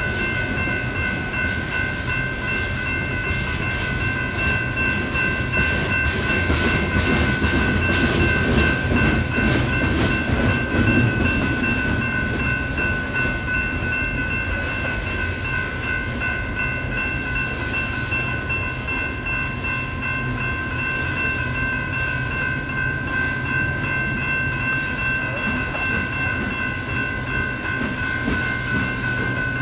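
Freight cars of a Union Pacific coal train rumbling and clacking over the rails through a grade crossing. Over them, the crossing's two electronic bells, an NEG E-Bell and a GS Type 3 E-Bell, ring steadily without a break.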